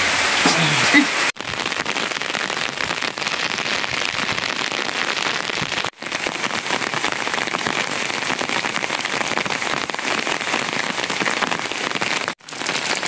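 Steady rain falling, a dense, even hiss, broken twice by brief gaps.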